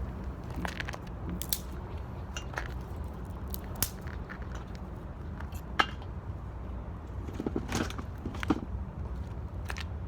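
Wood fire burning in an 18-litre metal can, crackling with irregular sharp pops over a steady low rumble.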